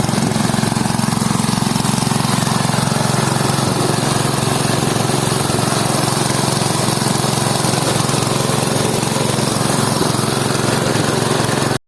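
Small engine running steadily at a constant speed, cutting off abruptly just before the end.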